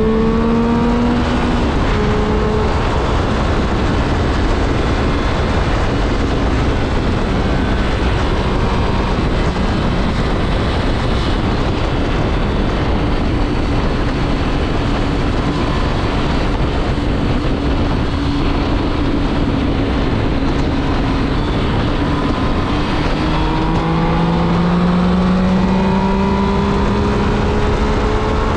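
2006 Triumph Speed Triple's 1050 cc inline-three engine under way, heard over heavy wind rush. It pulls with rising pitch at the start, holds a steady cruise through the middle, then accelerates again with a climbing pitch near the end.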